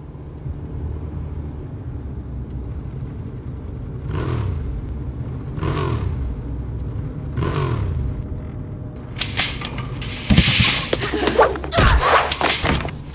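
A low, steady engine rumble, revved three times about a second and a half apart, each rev falling away. About nine seconds in comes a louder burst of harsh noise with heavy thuds.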